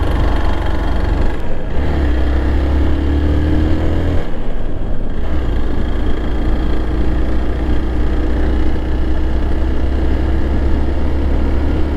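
Motorcycle engine running while riding, its pitch rising gently from about two seconds in, dipping briefly about four seconds in, then holding steady, over a heavy low rumble.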